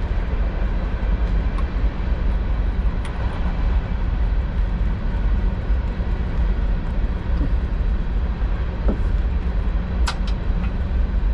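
A tractor engine running steadily, a low, even rumble with no change in speed. A brief sharp high click or squeak about ten seconds in.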